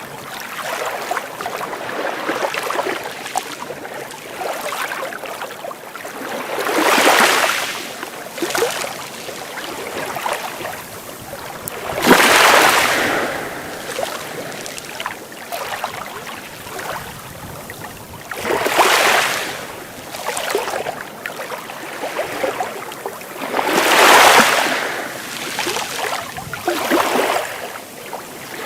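Sea waves washing in, with four larger waves breaking about every five to six seconds and smaller lapping in between.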